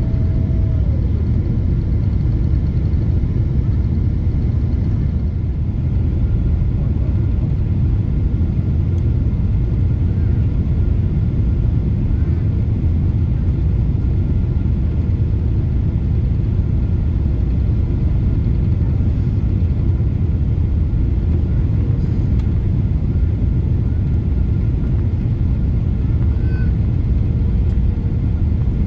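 Steady low rumble inside the cabin of a Boeing 777-300 airliner, engines and airflow running evenly, with a faint whine that drops away about a second in.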